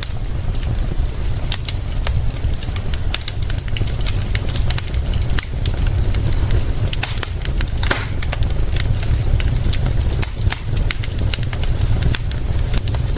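Fire crackling with frequent sharp pops, a denser cluster of pops about eight seconds in, over a steady low rumble.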